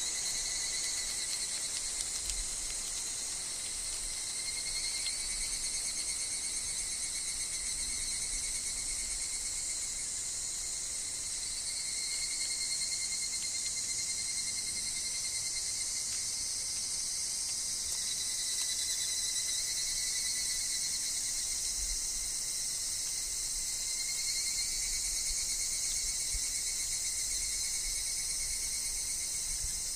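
Chorus of higurashi (evening cicadas) calling, a dense, steady, high-pitched wash of overlapping trills with fainter calls fading in and out every few seconds. A faint low rumble of wind sits underneath, a little stronger about three quarters of the way through.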